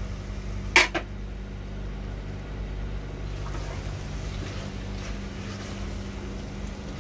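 A metal lid clanks down onto a cooking pot about a second in, over a steady low mechanical hum.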